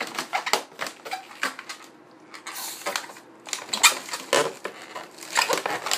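Inflated latex twisting balloons (260s) squeaking and rubbing in quick irregular bursts as bubbles are twisted off and knotted, with a short hiss about halfway through.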